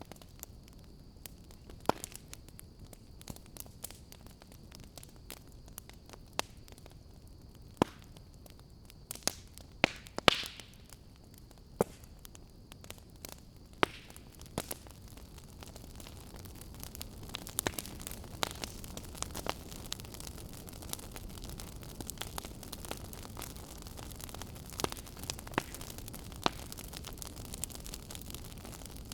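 Fire crackling: scattered sharp pops and snaps over a low hiss, with a cluster of louder snaps about ten seconds in. In the second half the hiss is stronger and the pops come more often.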